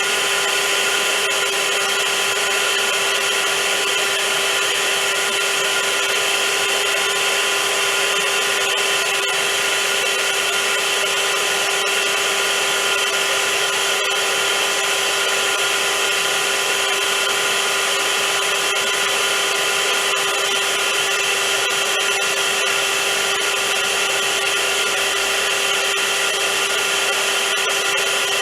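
Vacuum cleaner running steadily and loudly: an even motor whine with a strong steady hum over a dense rushing hiss.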